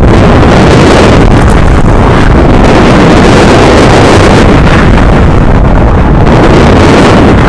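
Heavy wind buffeting a camera microphone, a loud, steady rumble and rush at near full level.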